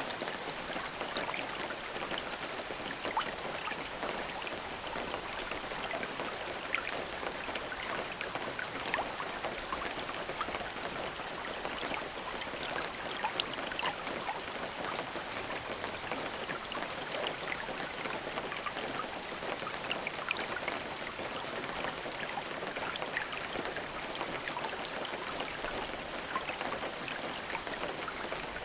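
Steady rain falling, a continuous hiss scattered with the ticks of individual drops landing on a surface, with no thunder.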